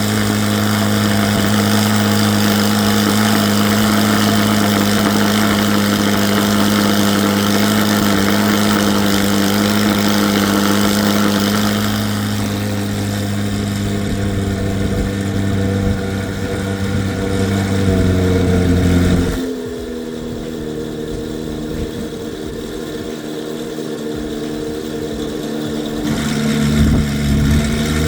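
The 2024 C8 Corvette Z06's 5.5-litre flat-plane-crank LT6 V8 is running through a nearly straight-piped exhaust with no catalytic converters. It holds a steady, loud idle. About two-thirds of the way in, the note drops suddenly to a lower, quieter idle, then picks up again near the end.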